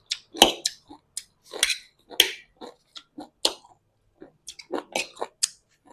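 A person chewing spicy instant noodles close to the microphone: a string of short, irregular mouth clicks and smacks.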